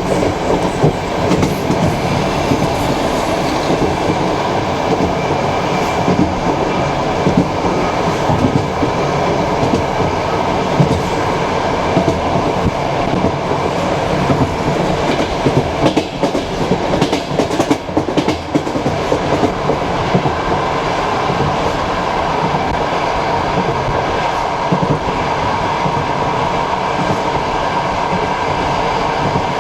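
Passenger train coach running at speed, its wheels knocking over rail joints under a steady rumble, with a burst of louder knocks about halfway through.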